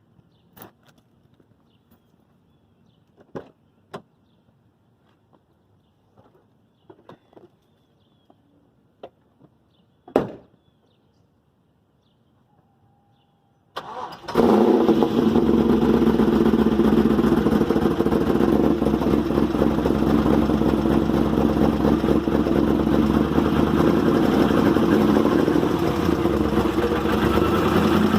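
Camaro SS's LS1 V8 starting about fourteen seconds in, after a few scattered clicks and knocks, then running steadily at idle. It is missing badly from lost compression, which the owner suspects is a bent or burnt valve.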